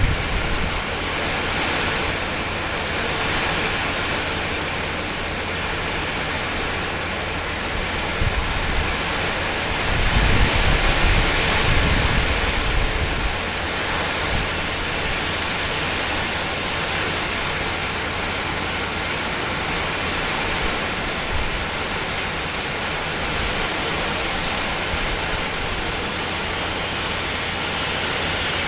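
Steady rain drumming on a tin (corrugated metal) shed roof, an even dense hiss. A louder low rumble swells from about ten to thirteen seconds in.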